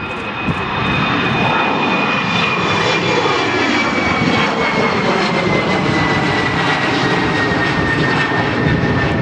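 An airliner passing close by at the airport, its engines making a loud rushing roar that builds about a second in. A high whine runs through it and slowly falls in pitch as the aircraft goes past.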